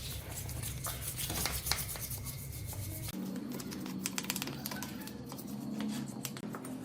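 Rubbing and scraping, with a steady low hum that stops about three seconds in, followed by a run of quick ticks and scrapes.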